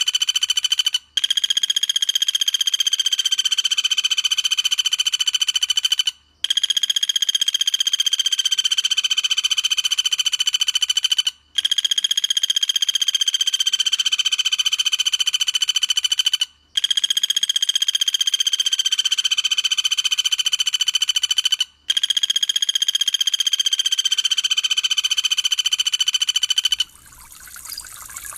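A songbird's rapid-fire trill, a dense steady run of notes held at one pitch, played as five phrases of about five seconds each with short gaps between. Near the end it stops and trickling water begins.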